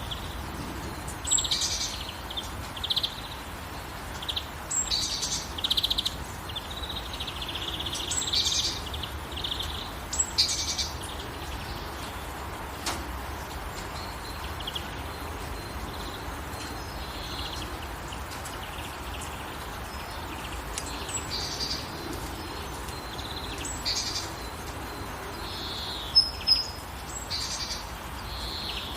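Songbirds chirping and calling in short phrases over a steady hiss of gentle rain. The calls are busiest in the first half, and two sharp loud chirps come near the end.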